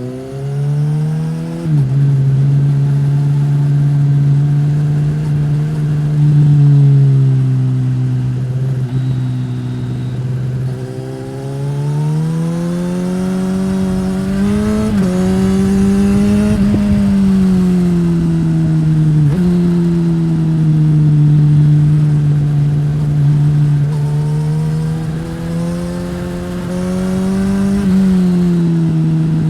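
Suzuki GSX-S1000 inline-four engine through a Yoshimura R-11 slip-on exhaust, running under load on the road. Its pitch climbs and then drops sharply at an upshift about two seconds in. It holds steady, rises and falls smoothly as the throttle opens and closes, and drops sharply at another gear change about two-thirds of the way through.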